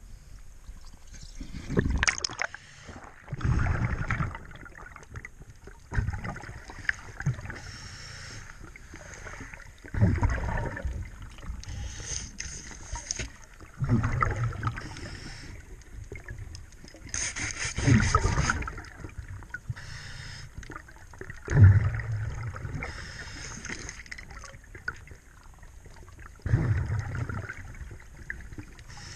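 A scuba diver breathing through a regulator underwater: a hissing inhale and a rumbling burst of exhaled bubbles, repeating every few seconds.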